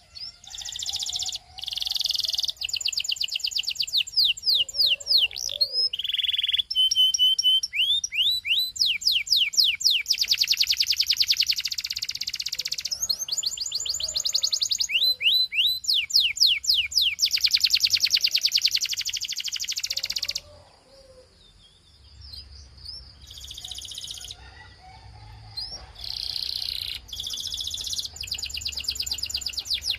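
Belgian canary singing a long song of fast rolling trills and runs of rapid downward-sweeping whistled notes. The song breaks off for about two seconds past the two-thirds mark, then the trilling starts again.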